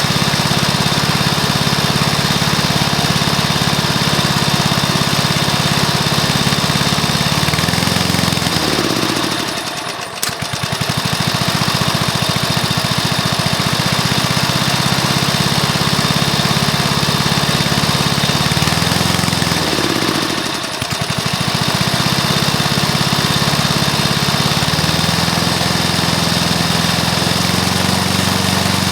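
Rebuilt Briggs & Stratton lawn mower engine, fitted with a new piston, rings and valves, running steadily. About a third and again two thirds of the way in its speed rises, then briefly drops away in level before settling, and it picks up slightly again near the end.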